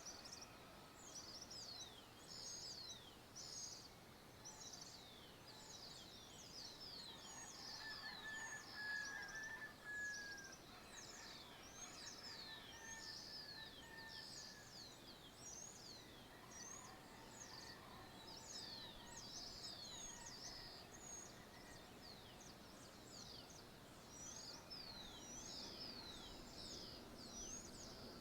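Faint dawn chorus of many birds chirping continuously in quick, high, falling notes, with one longer, lower call standing out between about eight and eleven seconds in.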